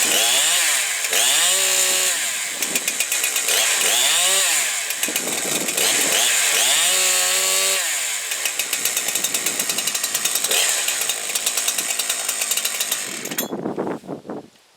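Two-stroke 372-pattern kit chainsaw revved up and down with four throttle blips, then left running more steadily. It is switched off suddenly near the end, hot, for a restart test of its low-speed tune.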